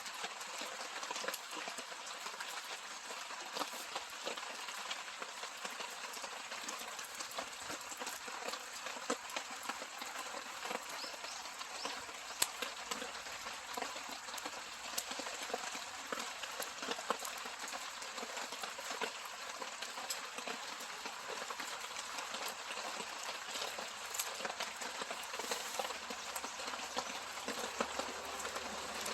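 Steady rain pattering, mixed with a wood campfire crackling and giving off frequent sharp pops.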